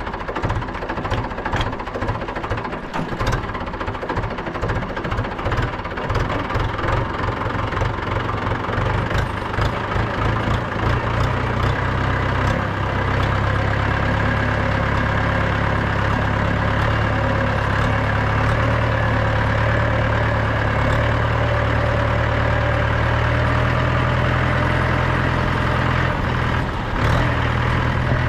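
Mahindra 475 DI tractor's 2.7-litre four-cylinder diesel engine running, with separate slow firing pulses at low revs for the first ten seconds or so, then picking up to a steady, smoother and louder run at higher revs as the tractor drives.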